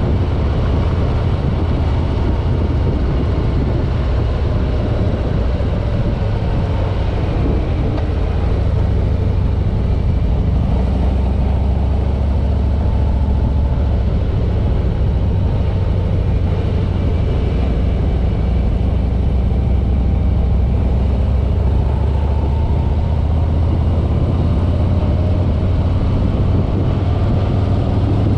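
A 2021 Harley-Davidson Road King's Milwaukee-Eight 107 V-twin engine running under way, a steady low rumble whose pitch drifts gently up and down with the throttle.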